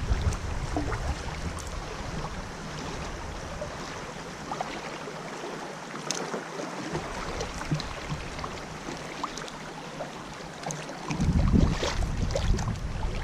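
River water splashing and trickling around a kayak on a flowing river, with wind buffeting the microphone at the start and again near the end.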